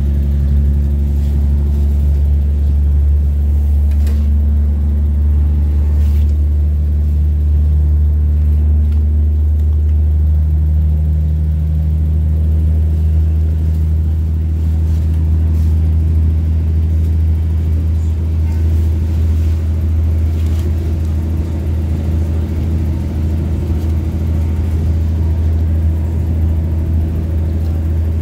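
Steady low rumble of a 2800 Class diesel multiple unit running along the line, heard from inside the carriage, with a hum in it that rises slightly in pitch about ten seconds in.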